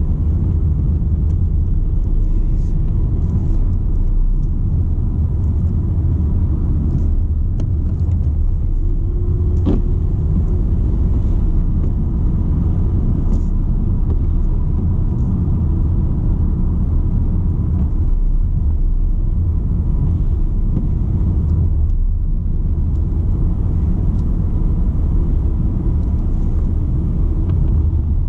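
BMW 120d with its 2.0-litre four-cylinder turbodiesel, driving at a steady pace: an even, low rumble of engine and road noise with no revving.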